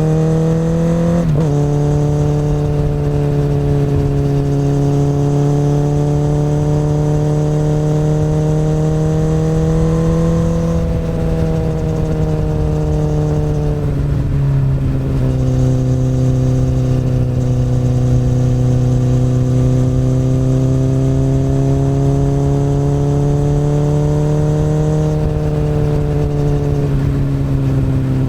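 Akrapovic exhaust of a 2008 Honda CBR1000RR's inline-four engine pulling at moderate revs on the open road. It drops sharply in pitch about a second in, like a quick gearshift, then rises and falls slowly as the throttle is opened and eased, backing off for a few seconds around the middle.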